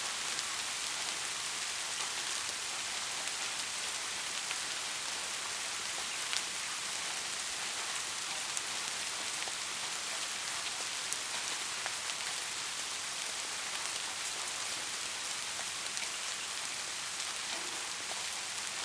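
Steady rain falling, a continuous hiss with scattered individual drops ticking close by.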